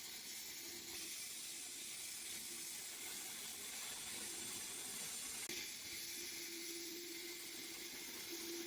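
Sandblasting with white fused alumina abrasive: a steady hiss of air and grit from the blast nozzle, with a faint low hum underneath.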